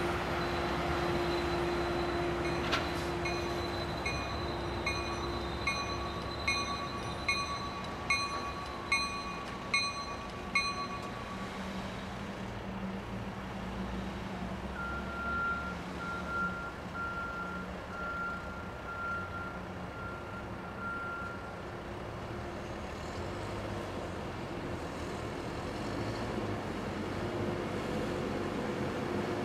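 Sounder commuter train rolling past with a steady low rumble, while a vehicle backup alarm beeps a little faster than once a second for several seconds. A fainter, higher beeping follows later.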